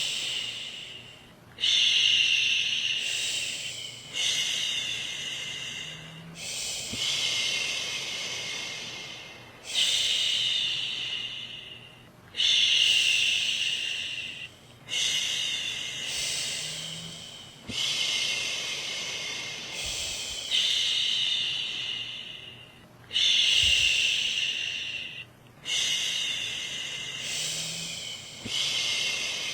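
A woman shushing a baby, repeating a long "shhh" about every two and a half to three seconds. Each one starts strongly and fades away.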